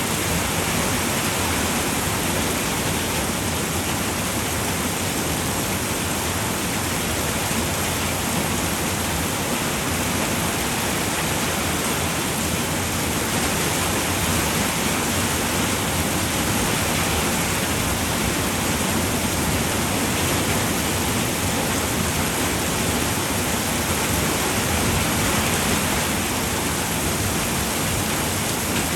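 Steady rain falling on a roof, an even unbroken patter without pauses.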